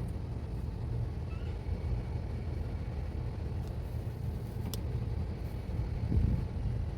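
Steady low background hum, with a faint metallic click near five seconds in and a short dull knock about six seconds in, typical of nuts and tools being handled while working on a car's transmission mount.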